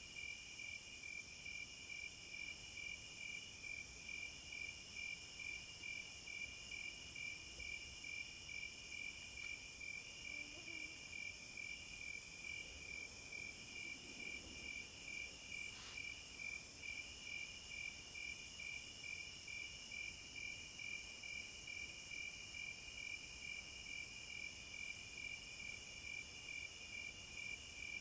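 Night chorus of crickets and other insects: one keeps up a steady run of short chirps, while a higher, thinner trill comes and goes in stretches of about a second. A single faint click about halfway through.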